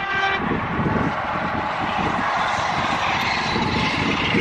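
A high-speed train's horn cuts off just after the start, followed by the steady rushing noise of the train passing at speed, swelling in the middle and easing near the end.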